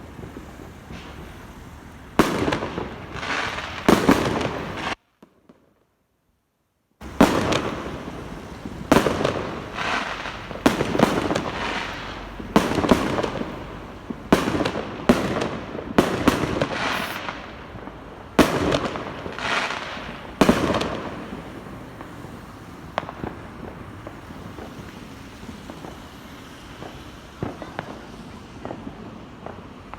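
Fireworks going off: a string of loud bangs, each trailing off in an echo, thinning to lighter, scattered pops and crackles over the last third. The sound drops to dead silence for about two seconds, some five seconds in.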